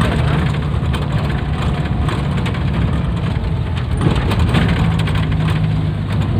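Engine of a 1986 Suzuki Carry running steadily at an even speed.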